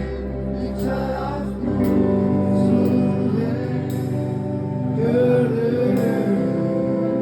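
Live band music with sustained chords and a sung, wordless vocal line that wavers about five seconds in. The deep bass drops away about two seconds in.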